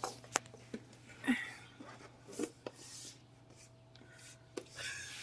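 Faint handling sounds as hair is worked off a vacuum cleaner's brush roll: a few sharp little clicks and short scratchy rubs, over a steady low hum.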